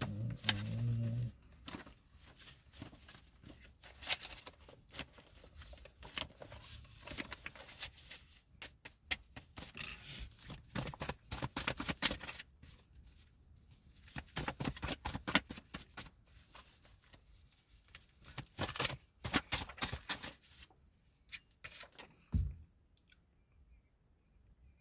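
A deck of cards being shuffled and handled: a long run of irregular crisp snaps and riffles that thins out near the end, with one low thump.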